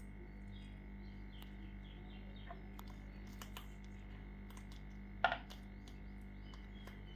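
A pet parrot making small clicks and faint chirps, with one brief louder call about five seconds in, over a steady electrical hum.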